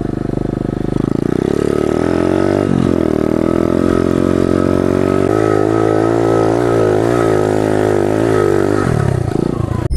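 Pit bike's small single-cylinder engine running while being ridden. The revs rise about a second in and dip briefly, then swing quickly up and down with the throttle before dropping off near the end.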